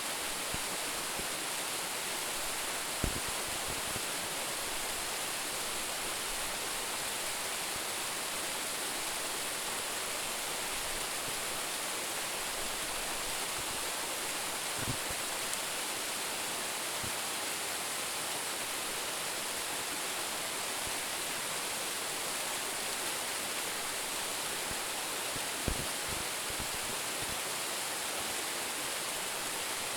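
Waterfall with a drop of about 10 metres: a steady, even rush of falling water. A few faint low thumps sound three times under it.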